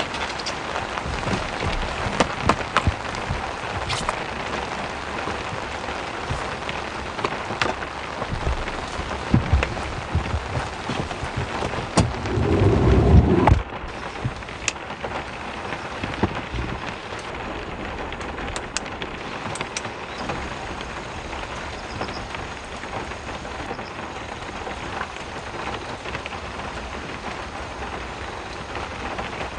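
Heavy rain falling steadily, with many sharp single drop strikes. About twelve seconds in comes a loud low rumble lasting about a second and a half, which stops abruptly.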